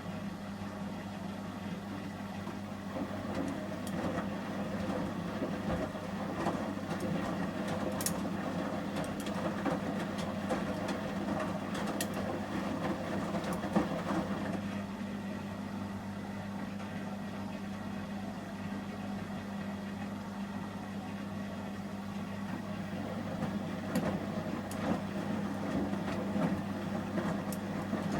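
Samsung Series 5+ washing machine in the heating stage of a 30 °C shirts wash, with a steady low hum throughout. The drum turns in spells, with the wet load swishing during each spell and a few light clicks.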